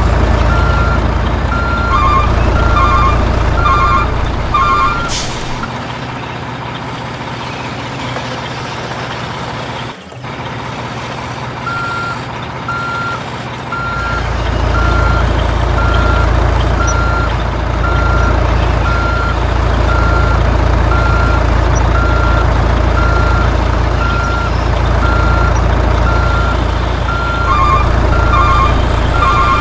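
RC dump truck's truck sound effects: a low diesel engine rumble and a reversing beeper sounding about once a second. There is a short air-brake hiss about five seconds in. The engine sound drops away for several seconds and comes back about fourteen seconds in.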